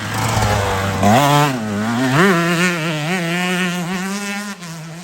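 Dirt bike revving hard, its pitch climbing, wavering and dropping back as the throttle is worked, easing off near the end.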